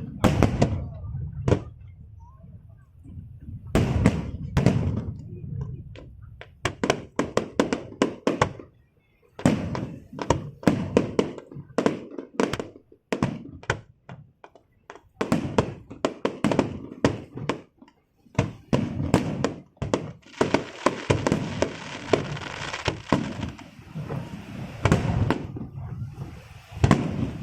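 Fireworks display: aerial shells bursting in rapid, irregular volleys of bangs, with a stretch of dense crackling about three quarters of the way through.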